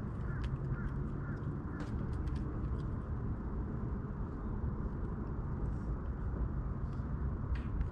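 Steady low rumble of outdoor ambience, with a few short bird calls in the first two seconds.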